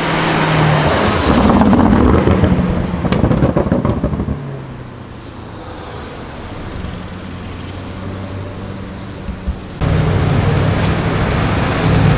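High-performance sports car engines and exhausts in street traffic. A loud passage with rapid crackles over the first four seconds drops to a quieter, steady engine note, then jumps suddenly back to a loud, steady engine note near the end.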